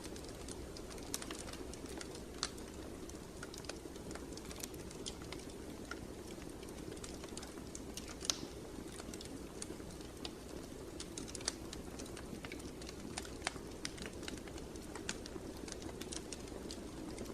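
Wood fire burning in a fireplace, crackling and popping at irregular intervals over a steady low rumble of the flames, with one sharper pop about eight seconds in.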